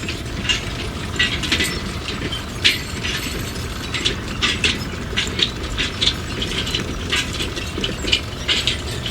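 A small motor running steadily, with irregular sharp clicks and ticks over it.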